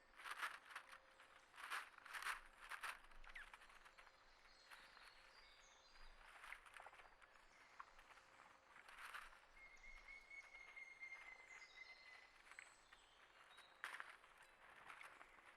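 Faint outdoor ambience with several brief scratchy rustles and faint high bird chirps. About nine seconds in, one long, thin whistled note sounds, falling slightly in pitch over about three seconds.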